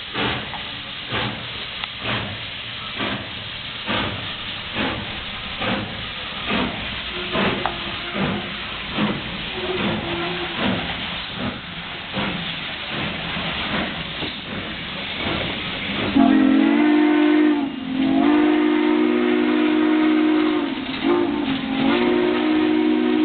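Southern Pacific 4449, a GS-4 4-8-4 steam locomotive, pulling out: exhaust chuffing in a steady beat about once a second, quickening slightly. About two-thirds of the way through its steam whistle blows long and loud, with two short breaks, still sounding at the end.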